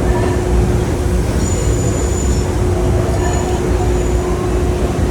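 PATH rapid-transit train heard from inside the car: a loud, steady rumble with a constant hum and faint high squeals now and then.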